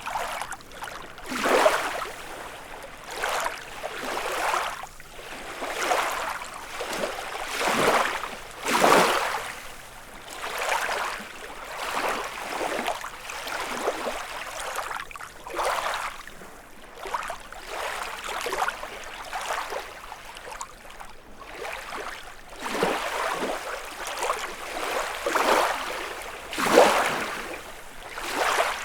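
Small freshwater lake waves lapping and splashing against the shore, one wash after another every second or two, with a few louder splashes.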